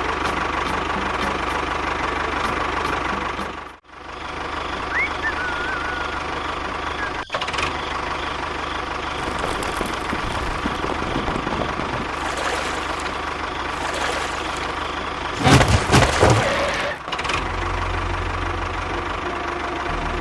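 A small engine running steadily, cut off abruptly twice early on, with a brief whistle-like tone about five seconds in and a louder burst of clattering noise about fifteen seconds in.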